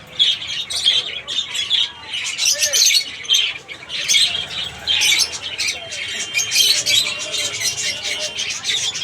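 Many birds chirping and squawking at once in a dense, continuous high-pitched chatter.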